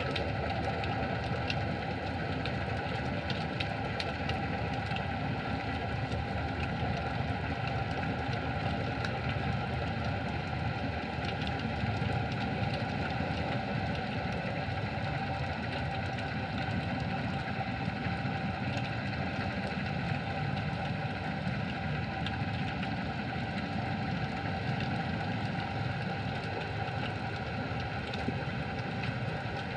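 Underwater ambience on a freedive: a steady low rumble with a steady hum running through it, and faint scattered clicks.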